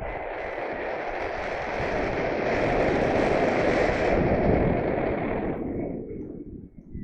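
Wind rushing and buffeting over the microphone in paraglider flight, swelling in the middle and dropping away near the end.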